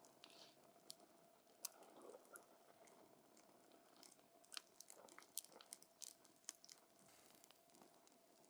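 Wood campfire crackling softly: irregular sharp pops and snaps from the burning wood over a faint hiss, most frequent in the middle of the stretch.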